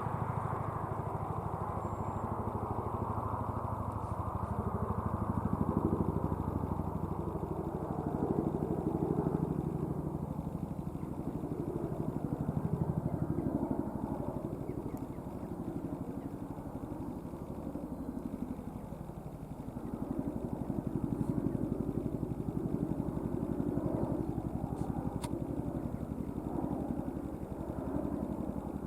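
Boeing CH-47 Chinook helicopter flying overhead, its tandem rotors beating with a fast, deep thudding throb that swells and fades several times.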